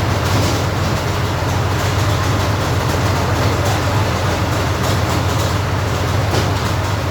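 Armoured recovery vehicle's engine running steadily with a deep, even drone.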